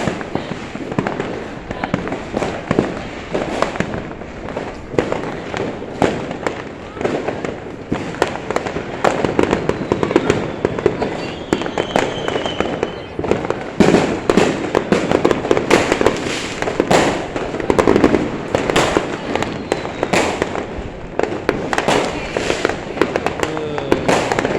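Fireworks and firecrackers going off without a break: a dense run of overlapping bangs and crackles, with voices in the background.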